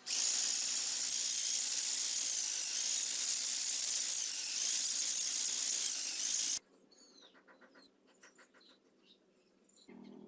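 A loud, steady hiss with a faint wavering whistle in it, which cuts off suddenly about six and a half seconds in. Faint clicks and small chirps follow.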